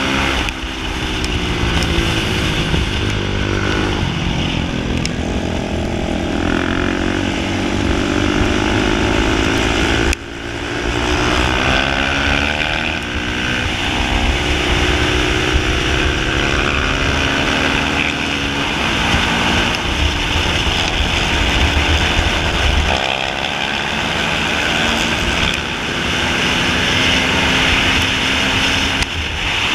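Onboard sound of a supermoto motorcycle's engine under hard riding, its pitch climbing repeatedly under acceleration and dropping back between gear changes and corners. The level dips sharply for a moment about ten seconds in, as the throttle is closed.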